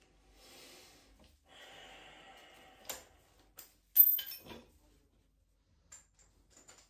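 Handling noises during the repair: a soft rustle and scrape, then a sharp metallic clink about four seconds in with a brief ringing tail, and a few light clicks near the end.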